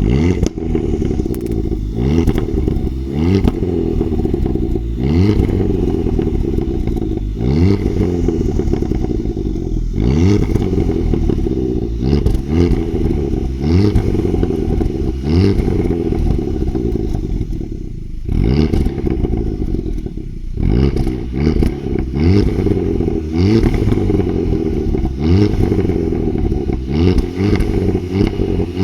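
Kia Ceed GT's 1.6-litre turbo four-cylinder petrol engine, its exhaust running without the middle silencer, revved in repeated short blips, each rising then dropping back, with a brief lull about eighteen seconds in.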